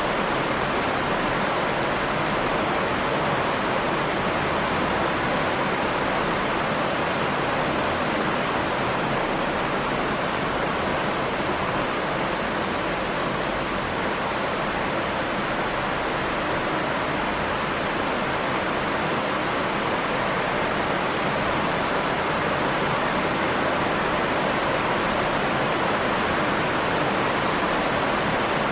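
Steady rain falling, an even hiss of water with no change in strength.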